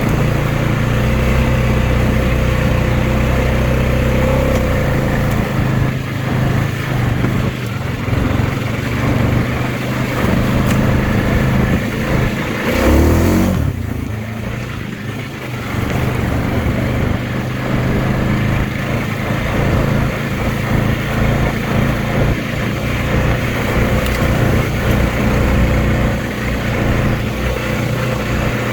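2020 Honda Rubicon 520 ATV's single-cylinder engine running under way, its note rising and falling with the throttle. About halfway there is a brief pitch sweep and a burst of noise, then the engine eases off for a moment.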